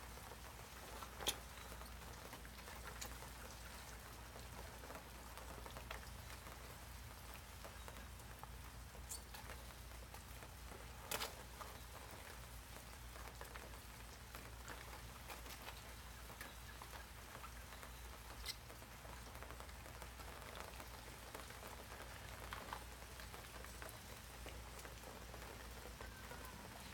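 Light rain falling steadily on pavement, with three brief sharp clicks, the loudest about eleven seconds in.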